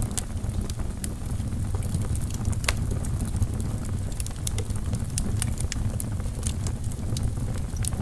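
Wood fire burning in a fireplace: a steady low rumble of flames with irregular sharp crackles and pops from the burning logs, one louder pop about two and a half seconds in.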